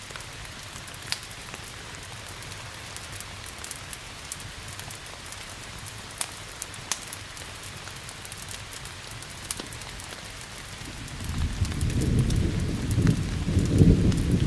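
Steady rain with scattered sharp crackles and pops from a wood fire. About eleven seconds in, a low thunder rumble rises and swells to the loudest point near the end.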